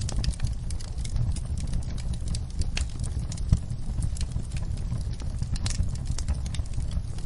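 Wood fire crackling in a fireplace: irregular sharp pops and snaps over a low, steady rumble of flames, with one louder pop about three and a half seconds in.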